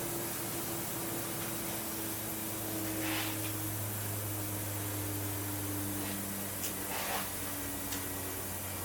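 Steady hum of workshop machinery, with short hisses about three seconds in and again about seven seconds in.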